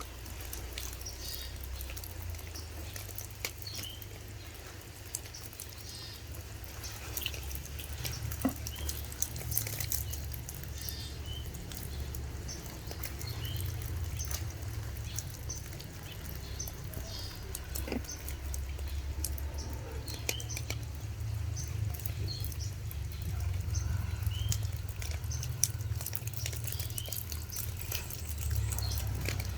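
Water dripping and splashing as pet green pigeon chicks are bathed from a bottle, with many small sharp drip ticks over a steady low rumble. Brief high chirps come and go throughout.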